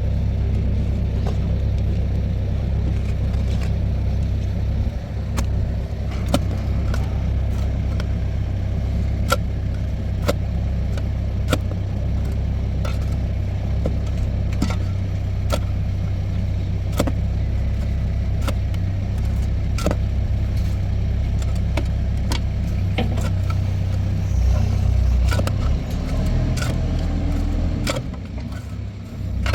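A motor vehicle running with a steady low rumble, with frequent light rattles and clicks over it. The rumble shifts and drops near the end.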